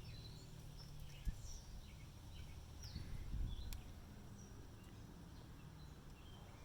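Faint background with small birds chirping now and then over a low rumble, and one sharp click about a second in.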